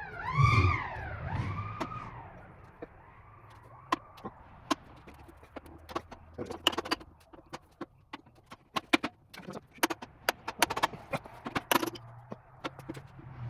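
Metal drill press parts clinking and tapping as they are handled and fitted, many scattered sharp clicks. Near the start there is a thump and a few short squeaks that rise and fall in pitch.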